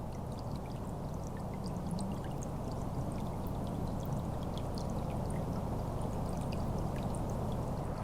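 Steady, even rush of distant highway traffic from Route 93, with faint scattered ticks over it.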